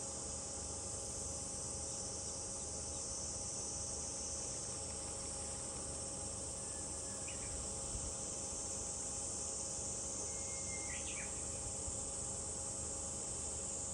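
Steady high-pitched chorus of summer cicadas, with a couple of faint short bird chirps, one about halfway through and another a few seconds later.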